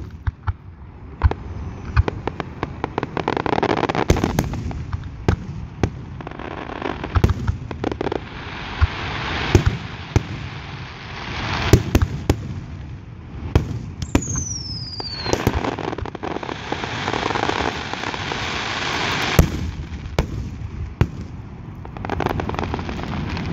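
Aerial fireworks display: shells bursting with sharp bangs throughout, over long stretches of dense crackling. A whistle falls in pitch about fourteen seconds in.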